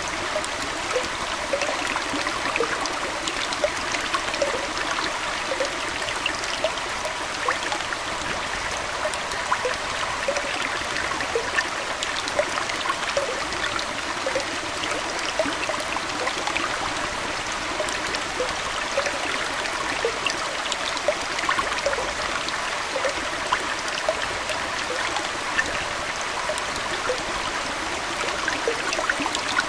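Aquarium water flowing and trickling steadily, with a constant scatter of small plinks and splashes.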